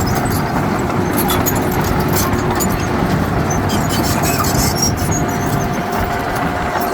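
Heavy diesel earthmoving machinery running steadily, with a thin steady whine and a scatter of light clanks and clicks over the engine's rumble.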